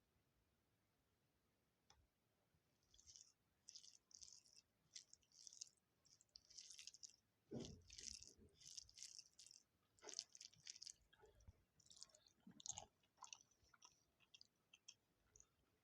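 A person chewing food close to the microphone, with mouth sounds in irregular short bursts. It starts about three seconds in, after a near-silent opening.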